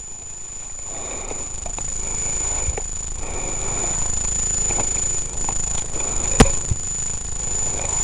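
Rustling and scuffing movement noise with scattered small knocks, then one sharp crack about six seconds in, over a steady high-pitched whine.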